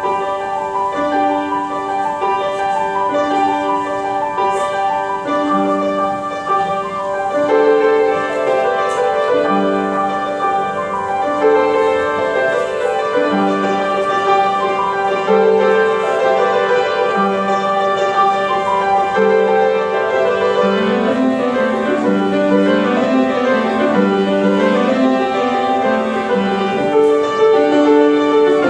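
Solo piano playing a flowing, repeating figure of notes. Lower bass notes join about five seconds in, and the texture grows fuller soon after.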